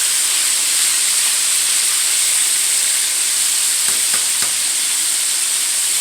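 Chicken wings frying with a steady sizzle, with a few faint clicks about four seconds in.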